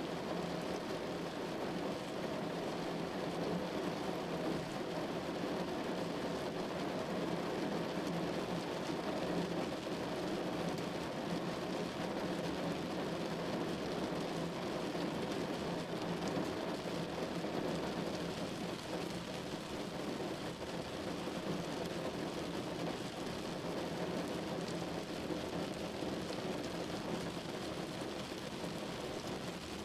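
Steady rain falling on a window pane, an even wash of patter that holds at the same level throughout.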